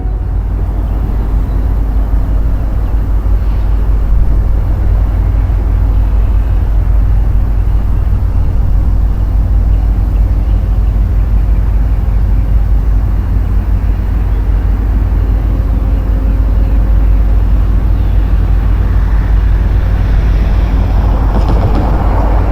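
Steady low rumble of an approaching freight train's diesel locomotives, growing a little louder near the end.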